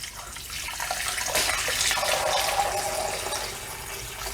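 Filtered water pouring into the Instant Pot's inner pot over the chicken and seasonings, a steady splashing fill that grows louder about a second in and eases near the end.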